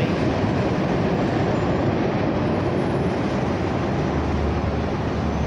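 Freight train boxcars rolling along the track as the tail end of the train passes and moves away: steady noise of steel wheels on rails.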